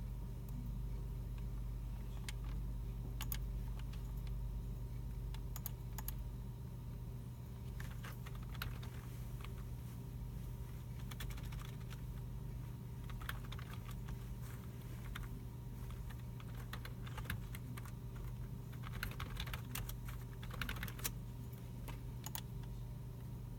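Computer keyboards being typed on and mice clicking in a computer room, in scattered keystrokes with bunches of rapid typing here and there, over a steady low hum.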